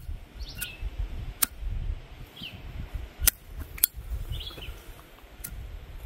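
Birds chirping three times, short gliding calls, amid a handful of sharp, irregular clicks and a low rumble.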